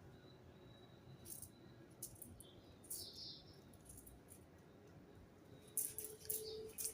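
Small birds chirping in short, scattered high-pitched notes, with a quick run of chirps near the end.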